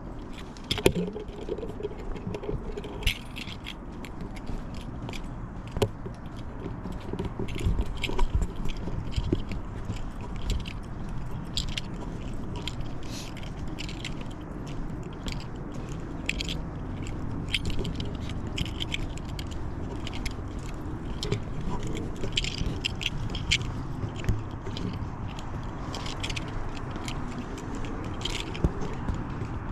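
Walking sounds: irregular scraping and crackling clicks of footsteps and small jostling items, over a steady low rumble.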